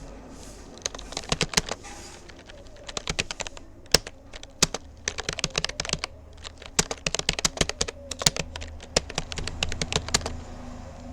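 Rapid touch-typing on a Rapoo computer keyboard: quick, irregular key clicks with short pauses and one louder keystroke, stopping near the end.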